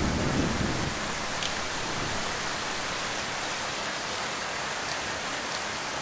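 Heavy rain falling steadily, a dense even hiss. The low rumble of a thunderclap dies away in the first second.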